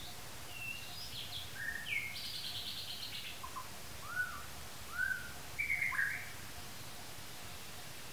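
Wild forest birds calling: a quick series of short whistled notes, some sliding up or down and some arched, with one harsher buzzy call about two seconds in. The calls die away about six seconds in.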